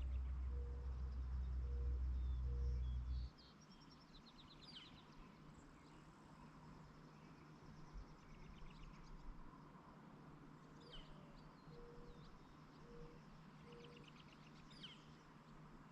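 Songbirds calling in open countryside, with repeated high chirps and fast trills now and then. A low rumble at the start stops suddenly about three seconds in, and a short series of three low hoot-like notes comes twice.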